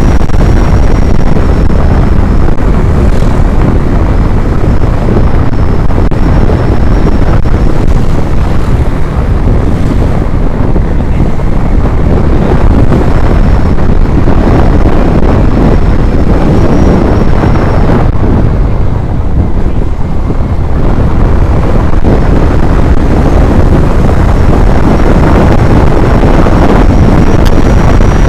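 Loud, continuous wind buffeting the microphone while on the move, a dense low rumble that dips briefly about two-thirds of the way through. A faint thin high whine fades in and out over it.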